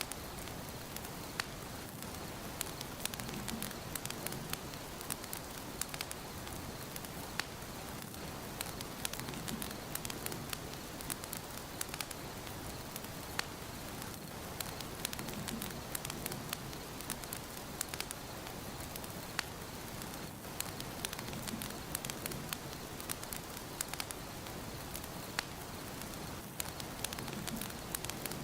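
Wood fire burning in a fireplace: a steady hiss with many sharp crackles and pops scattered throughout.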